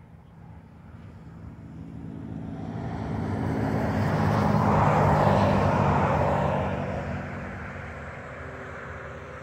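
A vehicle passing by: its engine and road noise swell to a peak about five seconds in, then fade away.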